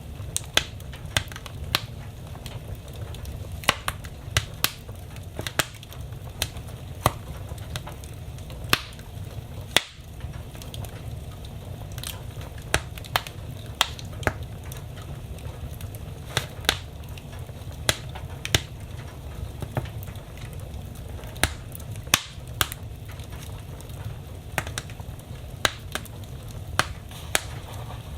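Wood fire burning in a fireplace, a steady low rumble of flames with sharp, irregular crackles and pops from the burning logs.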